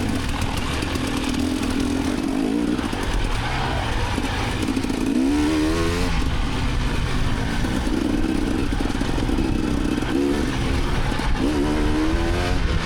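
Dirt bike engine running under throttle, the revs sweeping up sharply about five seconds in and again near the end.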